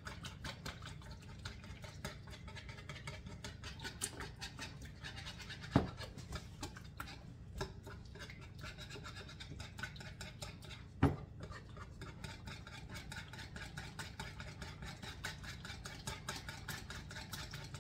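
Hand whisk beating butter in a bowl in rapid, scraping strokes, with two louder knocks against the bowl about six and eleven seconds in. The butter is too firm, so it is slow to blend.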